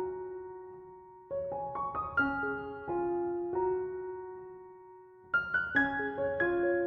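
Gentle background piano music: short phrases of struck notes that ring and fade away, each phrase dying down before the next begins, about a second and four seconds in.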